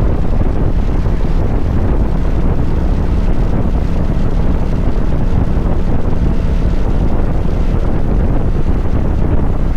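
Wind rushing over the microphone on a moving motorcycle, a steady low rumble, with the drone of the Kawasaki Vulcan 900's V-twin engine underneath.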